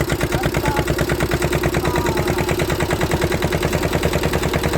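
Swaraj 717 small tractor's single-cylinder diesel engine running steadily, a fast, even chugging beat.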